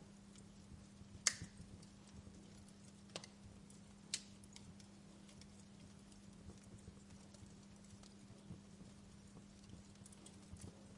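Wood fire crackling: a few sharp pops, the loudest about a second in and two more around three and four seconds, with scattered small ticks over a faint hiss and a steady low hum.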